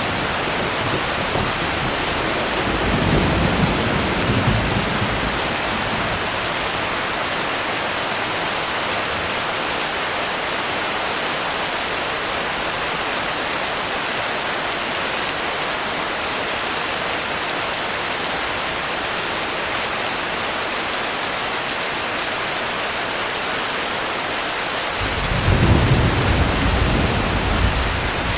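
Steady heavy rain hissing, with low rolls of thunder rumbling twice: once about three seconds in and again, louder, near the end.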